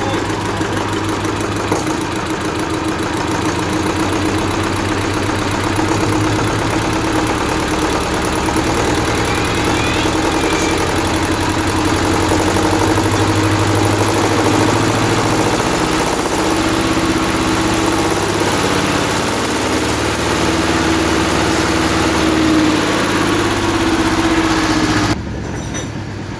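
Eicher 322 tractor's diesel engine running steadily, being brought up from idle toward about 2000 rpm and growing louder through the middle. Near the end it drops back suddenly to a quieter run.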